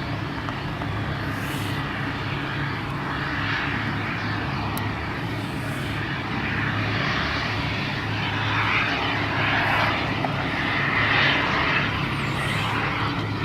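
A radio-controlled model airplane's engine running as the plane flies, a steady drone that swells louder for a few seconds in the second half.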